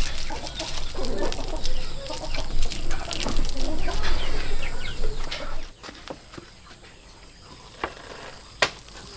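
Chickens clucking for about the first five seconds, then a quieter stretch with a couple of sharp clicks near the end.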